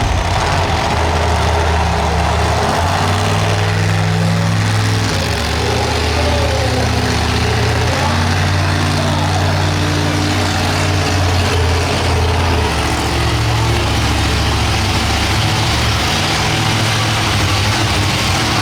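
Monster truck engine running loud, its pitch shifting up and down in steps every few seconds as the throttle changes.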